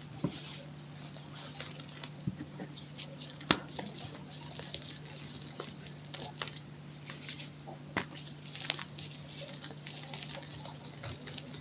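Close-miked crunching and crackling: irregular sharp clicks and a fine, gritty crackle, with a few louder snaps about three and a half seconds and eight seconds in. A steady low hum runs underneath.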